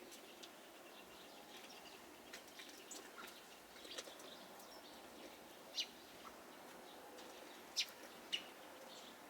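Small songbirds calling: scattered short, high chirps over a faint steady hiss, with three louder sharp notes in the second half.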